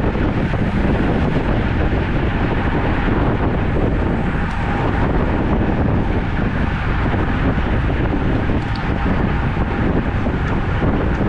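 Steady wind noise rushing over the microphone of a camera carried on a road bike while riding.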